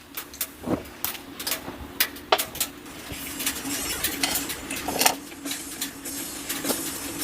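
Irregular clinks and knocks of hard objects being handled, like cookware or utensils, over a steady low hum.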